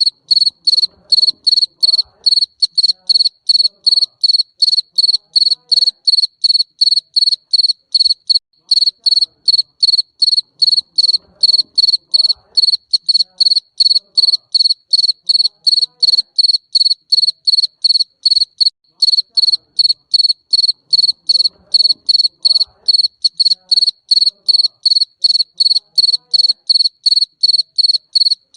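Garden cricket chirping loudly and steadily, a high-pitched chirp repeated about three times a second.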